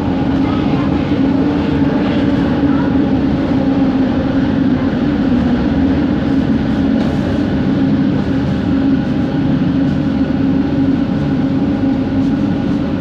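Bombardier Innovia ART 200 metro train running, heard inside the car. Its linear induction motor gives a steady hum of several held tones over the rumble of the running gear, the weird motor noise this train is known for.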